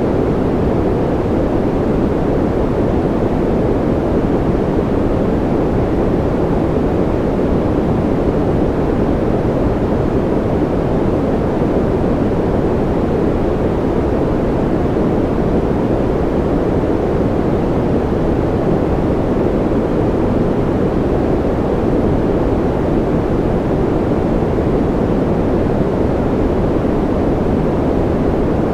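Steady, unchanging noise generator sound, sold as white noise, with most of its energy low, below about 1 kHz. It comes across as an even, deep rush rather than a bright hiss.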